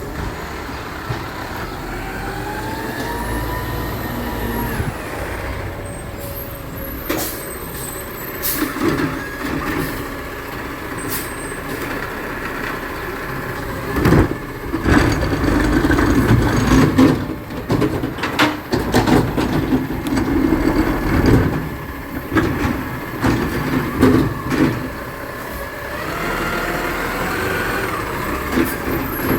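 Garbage truck working: its engine revs up and back down, then about halfway through a run of loud clanks and bangs from the truck's lifting and packing gear.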